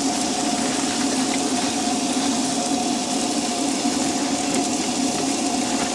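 Steady sizzling of eggs and burger patties frying on a propane camp stove's griddle and pan, with a steady low hum underneath.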